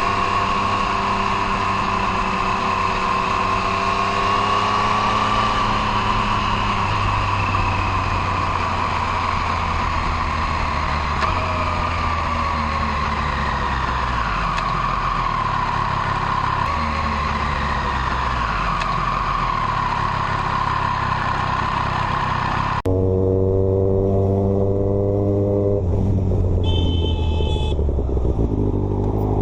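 Motorcycle engines running under way, the engine note rising and falling with the throttle. About 23 seconds in, the sound cuts abruptly to a different, louder engine.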